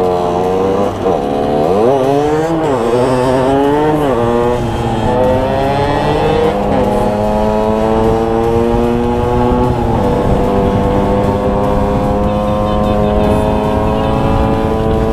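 Tuned 50 cc two-stroke engine of a Derbi DRD on the move: the revs drop and rise sharply a few times in the first four seconds, then the pitch climbs slowly and steadily as the bike pulls.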